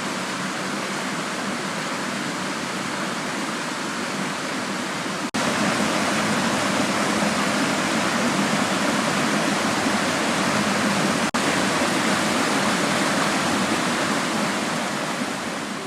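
Steady rushing of a waterfall, breaking off for an instant twice, about five and eleven seconds in, and a little louder after the first break.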